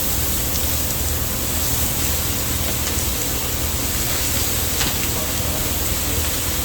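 Pork belly sizzling on a large iron griddle, a steady hiss with a couple of faint pops.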